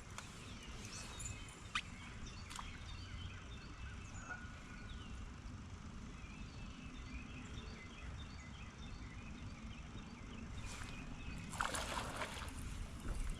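Quiet outdoor ambience with many small bird chirps over a steady low rumble, and a brief rustle or splash near the end.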